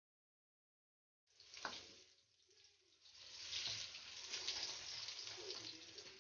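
Water running and splashing, as from a kitchen tap, starting about a second in and growing stronger halfway through.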